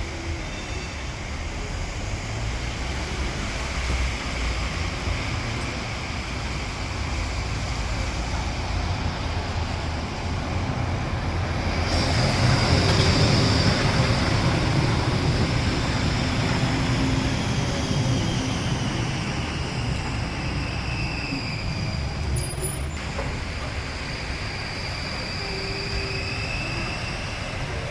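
Street traffic with buses and trams running by. It grows louder as one vehicle passes about halfway through, with high whines that drift up and down in pitch. A short, loud sharp sound comes about 23 seconds in.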